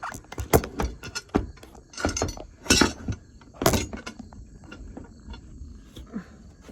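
Handling noise as a camera is adjusted on its mount: a string of sharp clicks, taps and clatters, most of them in the first four seconds, then quieter.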